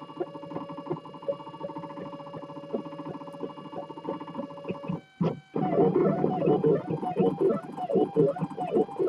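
3D printer stepper motors whining as the print head and bed move, changing pitch with each move. About five seconds in, the whine falls away and sweeps back up as the motors slow and speed up again. It then runs on as a rapid back-and-forth of rising and falling whines.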